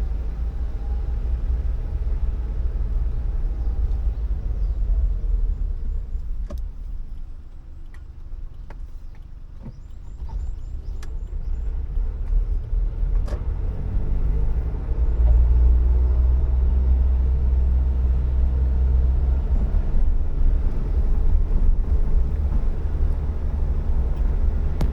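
Suzuki Jimny driving, its engine and road noise a steady low rumble that eases off about eight seconds in, then rises in pitch as the car accelerates and runs louder from about fifteen seconds on. A few short clicks or knocks come through along the way.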